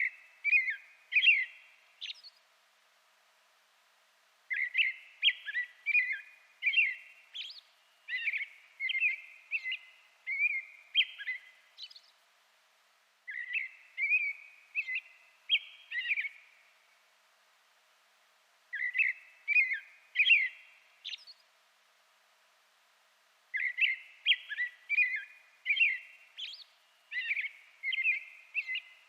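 A songbird singing: phrases of short, clear whistled notes, several of them sliding up or down, each phrase lasting a few seconds and followed by a pause of a second or two.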